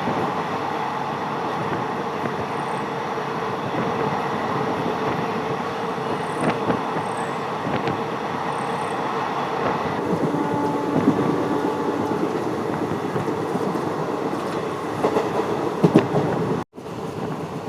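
Running noise of a moving passenger express train: the steady rumble and rattle of the coach on the rails, with a few sharp clicks from the wheels. The sound cuts out for an instant near the end.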